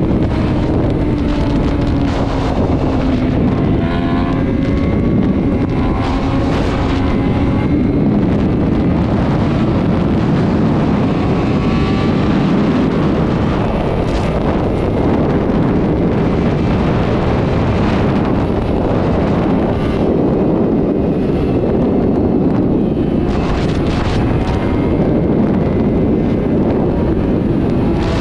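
Sport motorcycle engine running at highway speed, its note drifting slowly, under heavy wind rushing over the microphone.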